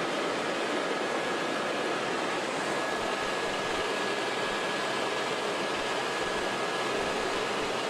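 Helicopter in flight, heard from on board: a steady, even rush of engine and rotor noise with a faint steady high whine over it.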